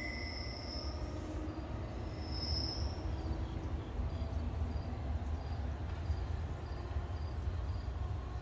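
Low, steady rumble of an NJ Transit electric-locomotive train rolling away along the track, with faint, even high ticks about twice a second through the second half.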